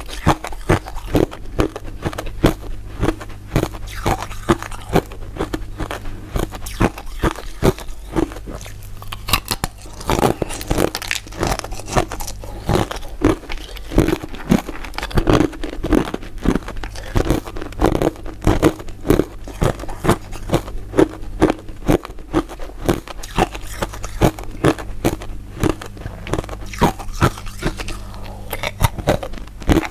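Close-miked biting and chewing of crisp, translucent crystal-ice dessert pieces: a dense run of sharp crunches, two or three a second, over a steady low hum.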